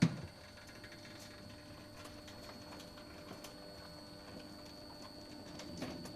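A single loud thump, then a faint steady machine hum with scattered light ticks and knocks, from a recycling baler being loaded with mixed material.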